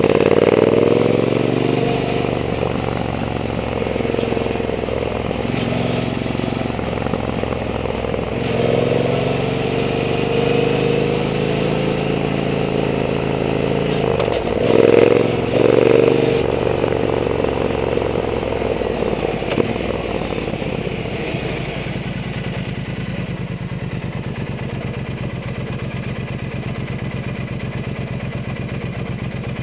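Triumph Bonneville T120's 1200 cc parallel-twin engine running through a Zard aftermarket exhaust, its pitch rising and falling as the throttle is worked on the move. There are two short, louder bursts of throttle about halfway through. Over the last third it settles to a steady, even low-revving run, close to idle.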